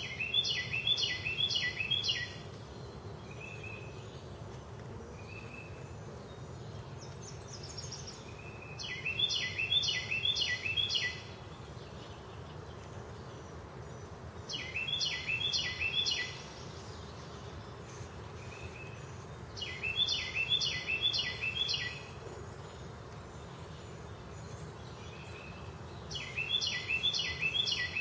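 A songbird singing a short phrase of five or six quick, high repeated notes, five times at intervals of about five to six seconds, with single short call notes between, over a steady low background hum.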